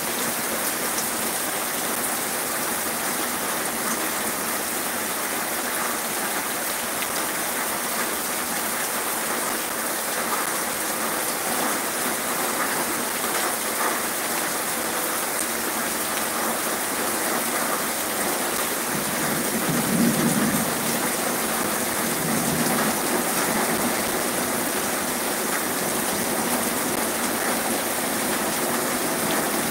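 Heavy rain pouring steadily: a dense, even hiss. A brief low rumble rises and fades about two-thirds of the way through.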